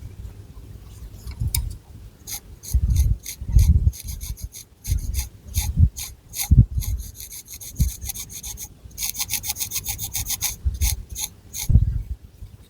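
Long fingernails scratching through thick hair and across the scalp in short raspy strokes, with a fast run of strokes about three quarters of the way through. Dull low thumps come in underneath.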